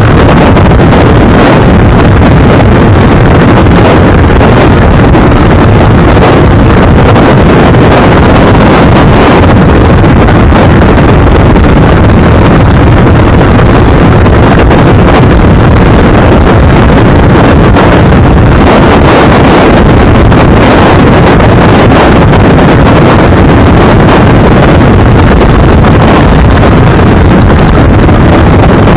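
Loud, steady wind buffeting the microphone while travelling in a moving vehicle, with road and engine rumble underneath and no distinct events.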